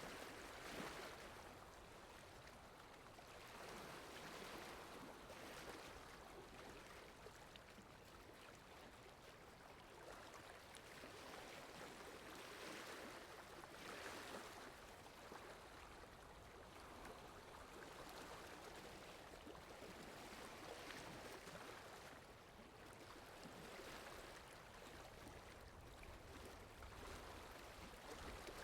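Faint, steady rushing of water, with no pitch to it, swelling and easing every few seconds: a rain-in-the-forest ambience.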